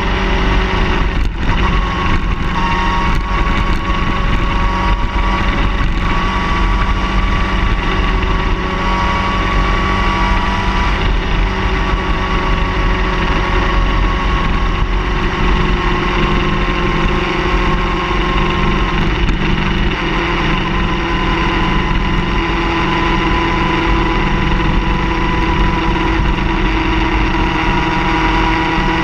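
A car engine running steadily at a near-constant speed, its pitch drifting slightly.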